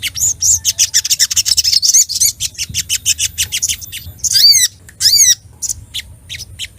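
Little spiderhunter (sogok ontong) calling in agitation: a fast run of sharp, high chips, then two loud, longer notes about four and a half and five seconds in, followed by more scattered chips.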